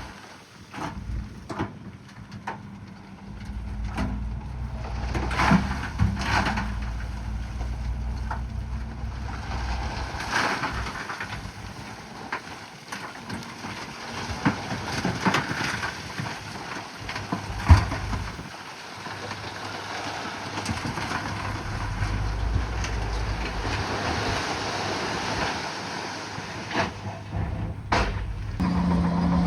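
Bulldozer's diesel engine running and working, its pitch and load shifting, with repeated clanks and knocks of metal and rock.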